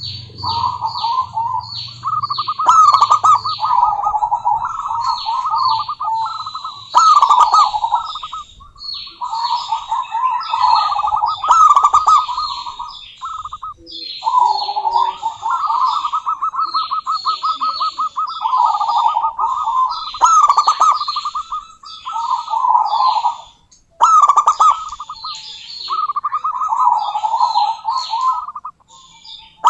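Female zebra dove (perkutut) calling: phrase after phrase of rapid, rolling, trilled cooing with short breaks between them. Quick, high chirps of smaller birds sound over the cooing throughout.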